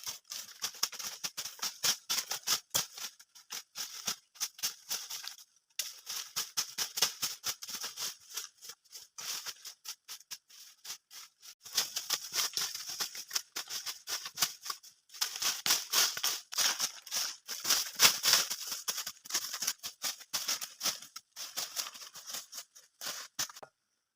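Dry leaves and twigs crackling and rustling as the forest floor is cleared by hand, in several spells with short pauses between them.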